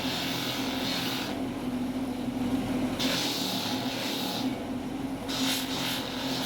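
Shoe-repair workshop machine with an electric motor running at a steady hum, with three bursts of hissing on top, each lasting a second or more.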